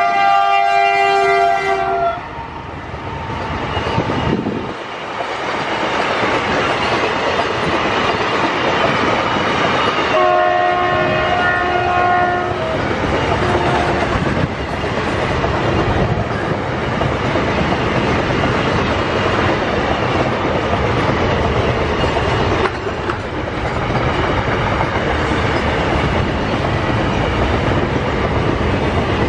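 WDG4G diesel locomotive sounding its air horn in a chord of several tones: a blast in the first two seconds, a second longer blast about ten seconds in and a short toot after it. Between and after the blasts, the double-stack container wagons roll past with steady wheel and rail noise.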